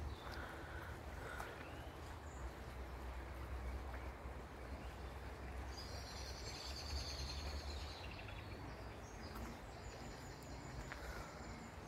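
Songbirds singing outdoors, with a high rapid trill about halfway through and fainter song near the end, over a steady low rumble.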